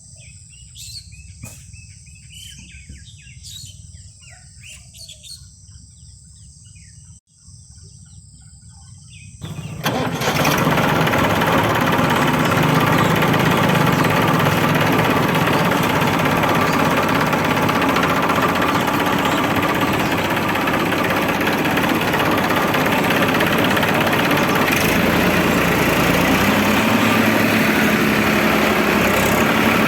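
Birds chirping over a quiet background. About nine and a half seconds in, a loud, steady motor-like running noise starts abruptly and drowns them out.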